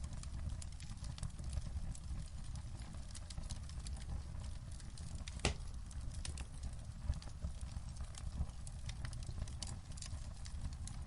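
Wood fire crackling in a fireplace: frequent small sharp pops over a low steady rumble, with one louder pop about halfway through.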